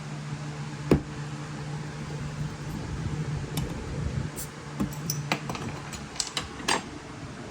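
A steady low mechanical hum, with scattered sharp clicks and knocks. The loudest knock comes about a second in, and a cluster of lighter ones follows in the second half.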